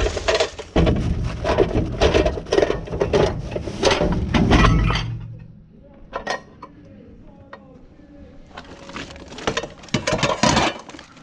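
Hard objects, glass among them, clinking and clattering as they are moved about while rubbish is rummaged through. A dense run of knocks and clinks lasts about five seconds, then a lull with a few single ticks, then another burst of clattering near the end.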